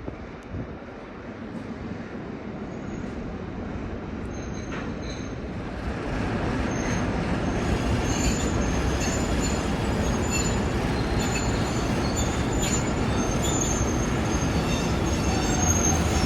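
A ChME3T shunting diesel locomotive hauling a ChS200 electric locomotive approaches at slow speed, growing steadily louder. From about four seconds in, the wheels squeal on the rails in thin high-pitched tones, with scattered clicks.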